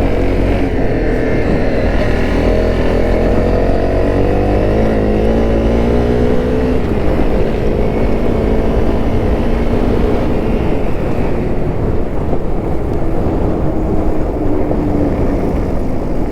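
Honda CRF250L's single-cylinder four-stroke engine running under way over a heavy low rumble. The revs climb for a few seconds, drop about seven seconds in, then hold steadier.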